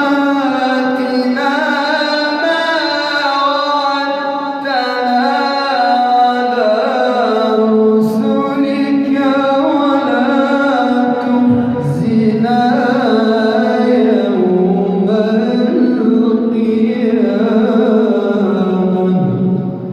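A man's voice reciting the Quran in the melodic mujawwad style: one long, ornamented phrase with the pitch gliding up and down, ending shortly before the end.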